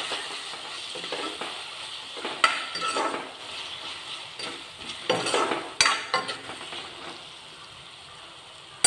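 Onion, tomato and spices sizzling in hot oil in a kerahi (wok) while a metal spatula stirs them, scraping and clinking against the pan in a few short bursts. The sizzle quietens over the last couple of seconds.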